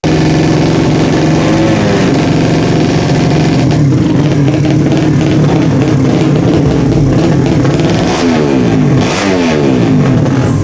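Tuned 200cc racing motorcycle engine running with a steady, even note, its pitch sweeping up and down a couple of times near the end as the throttle is worked.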